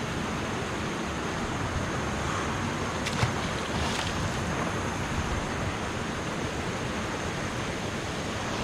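Steady rush of river water pouring over and below a low dam, with one brief click about three seconds in.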